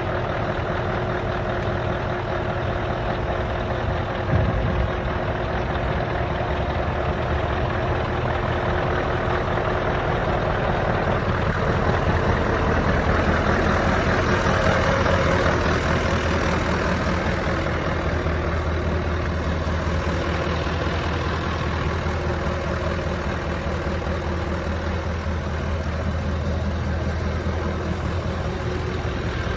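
Scania 144 530's 14-litre V8 diesel engine idling steadily, a little louder for a few seconds near the middle, with one short thump about four seconds in.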